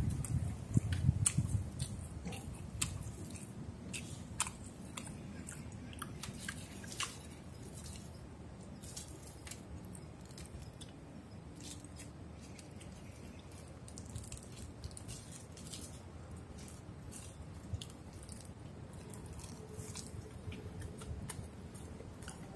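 Close-up chewing of a mouthful of rice wrapped in laver (gim), with many short, crisp crackles, most frequent in the first half.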